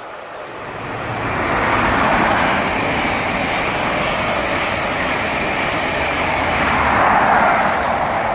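A Class 43 High Speed Train set passes through the station at speed without stopping, a loud rushing of diesel power cars and wheels on rail. It builds in the first second or two and is loudest about two seconds in and again near the end.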